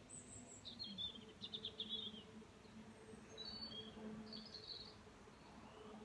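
Faint birdsong: a quick run of high chirping notes about a second in and another short phrase near the middle, over a faint steady low hum.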